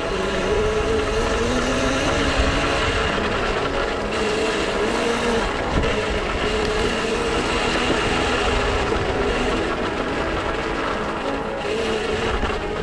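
Dirt bike engine running and revving, its pitch rising and falling as the throttle opens and closes.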